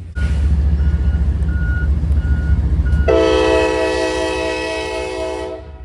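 Diesel locomotive sounding its air horn, a loud chord held for about two and a half seconds starting about three seconds in, over the heavy low rumble of the train. A bell dings steadily about every two thirds of a second before the horn comes in.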